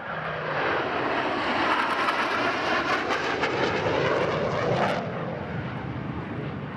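Blue Angels F/A-18 jet flyby: loud jet noise builds, peaks with a crackle, then cuts off suddenly about five seconds in, leaving a lower, fainter rumble.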